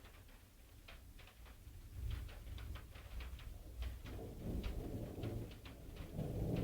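Thunderstorm: scattered raindrops ticking on a hard surface, with a low rumble of thunder swelling about four seconds in and again near the end.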